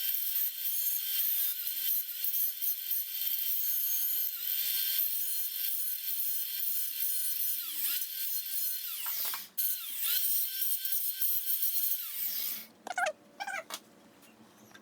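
A small high-speed power tool cutting, its motor whine dipping each time it bites into the work. It breaks off briefly about nine and a half seconds in and stops about twelve seconds in, followed by a few light clicks.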